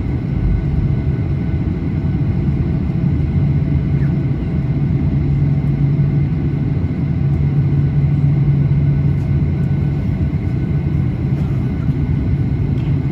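Steady low cabin drone inside a Boeing 737-800 on the ground, a constant deep hum with faint steady higher whines over it.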